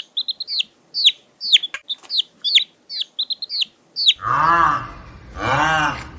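Chicks peeping: high, quickly falling peeps, about two a second. About four seconds in it cuts to two loud, drawn-out calls from a larger farm bird.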